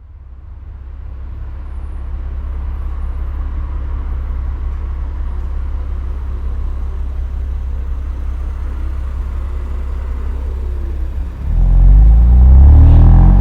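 BMW M2 Competition's twin-turbo inline-six running at a steady idle through the stock exhaust, a deep low drone, then about eleven and a half seconds in it is revved and turns much louder. The recording is slightly distorted from the microphone overloading.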